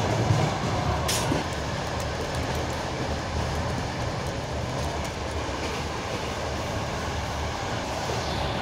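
Steady rumble and hiss of a moving passenger train heard from inside an open-plan sleeping car, its wheels running on the rails, with one short click about a second in.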